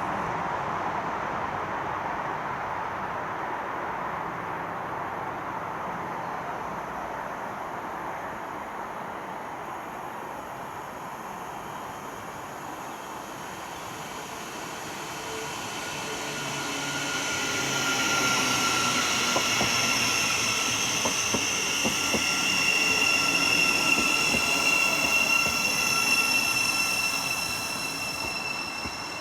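A train passing through a station: a rushing rail noise fades away, then a second train approaches with steady high-pitched whining tones that build to their loudest about two-thirds of the way through and ease off near the end.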